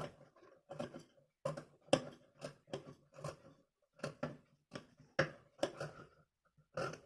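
Scissors snipping repeatedly, about two short snips a second, clipping notches into the seam allowance around a blouse neckline.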